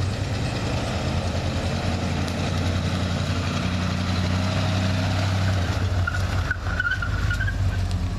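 Ford 5.0 V8 engine running steadily, with a rapid fine pulsing. Its exhaust leaks at both header collectors and flanges.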